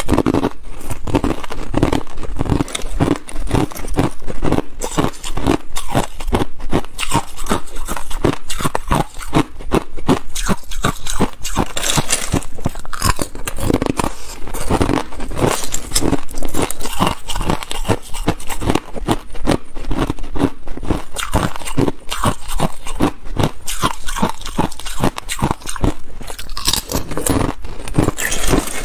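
Ice being bitten and chewed, loud: a dense run of sharp cracks and crunches with no pause.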